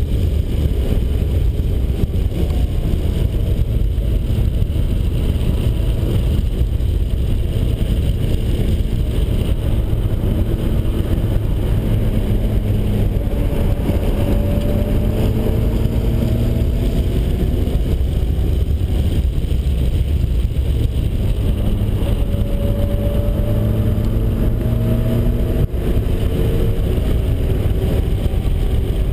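Turbocharged 1991 Mazda Miata's 1.9-litre stroker four-cylinder under hard track driving, over a loud, steady low rumble. Its pitch climbs in two long pulls, about halfway through and again near the end.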